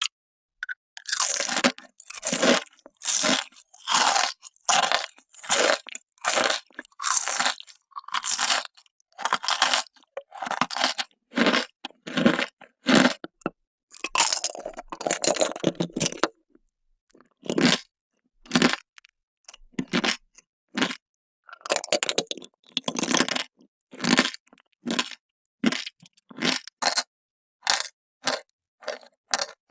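Close-miked chewing of hard emoji-shaped candy: a run of separate crunches, one or two a second, with short pauses between bites.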